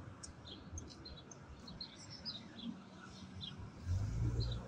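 Small birds chirping repeatedly in short calls. About four seconds in, a low rumble rises briefly and is the loudest sound.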